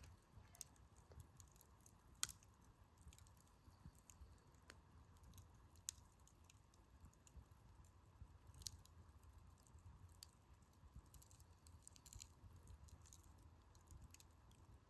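Wood campfire crackling: irregular sharp pops and snaps of burning firewood, with a few louder pops, the loudest about two seconds in.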